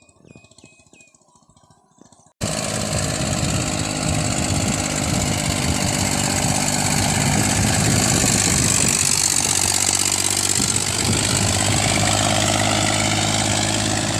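Massey Ferguson 35 tractor engine running steadily, coming in abruptly about two seconds in.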